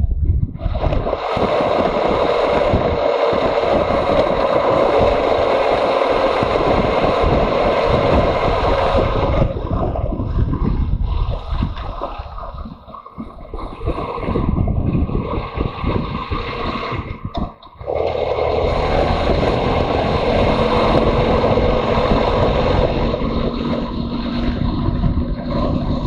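Motorcycle ride heard from an onboard camera: heavy wind rush on the microphone over the running engine. The wind noise eases briefly twice in the second half.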